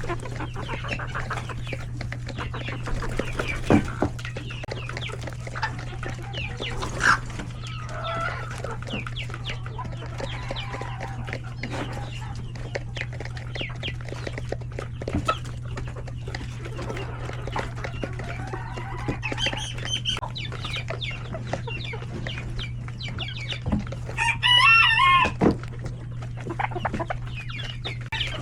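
Chickens clucking with chicks peeping, and a rooster crowing loudly about three-quarters of the way in. A steady low hum runs underneath.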